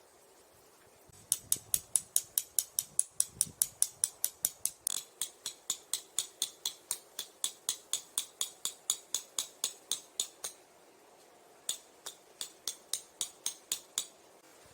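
A rapid, very regular series of sharp, high-pitched clicks, about four a second, running for roughly nine seconds, pausing briefly, then resuming for a couple of seconds more.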